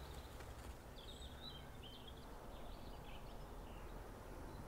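A small bird twittering in a short run of high chirps, over a quiet, steady low rumble of outdoor background noise.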